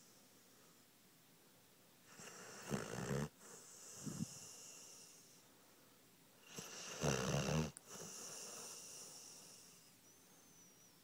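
Pit bull puppy snoring in its sleep: two loud snores about four seconds apart, each a deep rumble with a breathy hiss that trails off after it.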